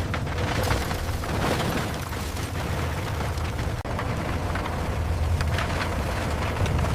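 Heavy scrap-processing machinery working on old cars: a loud, deep, steady rumble with repeated crashes and clanks of metal.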